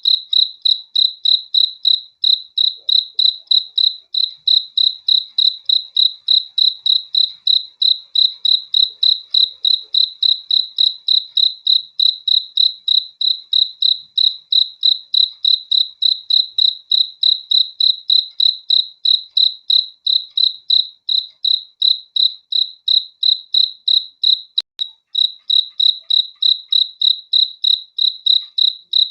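Cricket chirping in a steady, even rhythm of high-pitched pulses, about three chirps a second, with a faint click and a brief gap in the chirps near the end.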